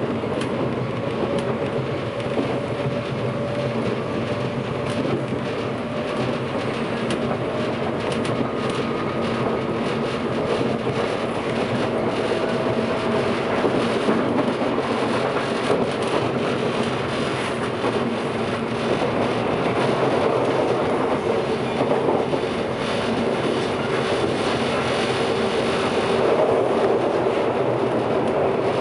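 Running noise inside a JR West 583-series electric sleeper train's motor car (MoHaNe 582): a steady rumble of wheels on rail, with clicks at the rail joints and a faint whine now and then.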